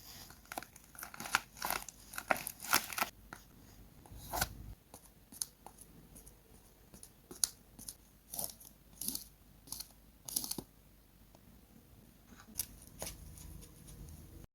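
Paper being handled in short bursts of crinkling, tearing and snipping, dense for the first three seconds, then scattered every second or so.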